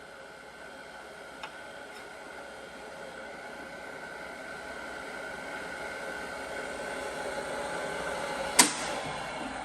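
Delta 1 HP three-phase abrasive chop saw running with a steady high whine while its 10-inch abrasive wheel grinds through thick steel tubing, the noise slowly growing louder. A single sharp clank comes near the end.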